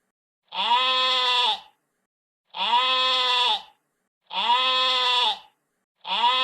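A long, pitched animal cry, repeated exactly alike about every two seconds: three full calls and a fourth beginning at the end, as if one recording were looped.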